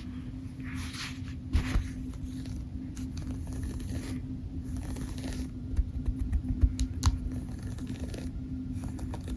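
Rustling, scraping handling noises with a few soft knocks, over a steady low hum.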